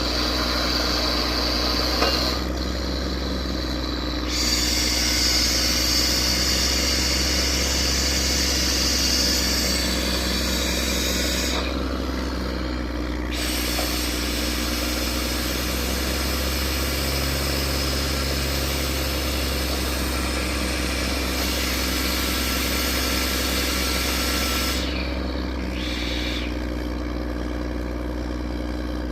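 Drilling machine's engine running steadily with a low hum, under a high hiss that cuts out briefly a few times and returns.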